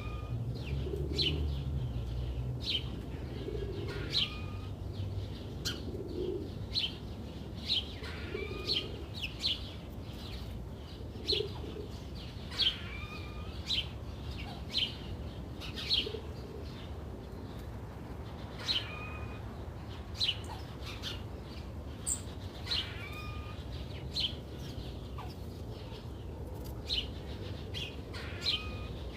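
Birds chirping with short, high calls at irregular intervals. Low cooing notes repeat every second or two through the first half.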